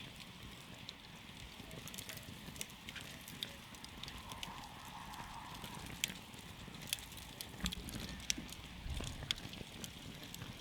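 Wood campfire burning: a steady low hiss and rumble with irregular sharp crackles and pops, a few louder ones in the second half.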